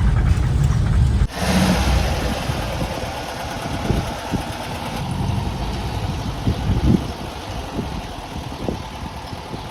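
VW Kombi van's engine running as the van drives slowly. The sound changes abruptly about a second in, then carries on as a steadier hum with a few scattered knocks.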